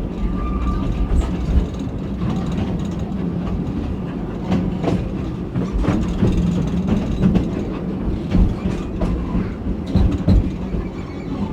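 Narrow-gauge railway carriage running along the track: a steady low rumble with irregular clicks of the wheels over the rail joints.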